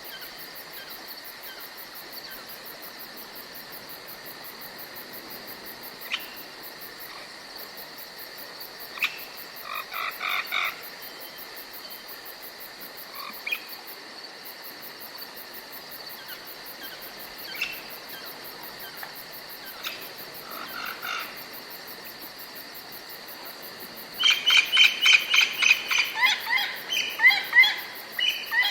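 Forest ambience: a steady high insect-like drone with scattered short animal calls, then a loud run of rapidly repeated chirping calls, about four a second, in the last few seconds.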